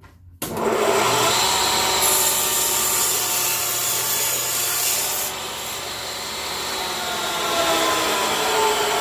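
Power saw cutting through a wooden board. It starts abruptly about half a second in, and the high hiss of the cut eases somewhat about five seconds in.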